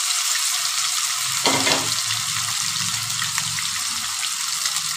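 Paneer cubes sizzling as they fry in refined oil in a non-stick kadai: a steady hiss, with a single knock about one and a half seconds in.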